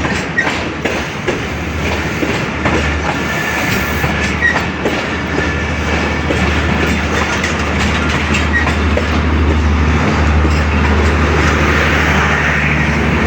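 Passenger train's coaches rolling through the station, wheels clicking over rail joints, with a few short wheel squeals and a steady low hum underneath.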